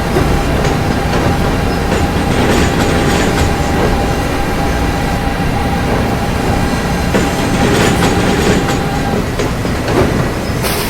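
New York City subway train running through a station: a steady rumble with two bunches of wheel clatter over the rail joints, and a steady high hum that stops near the end.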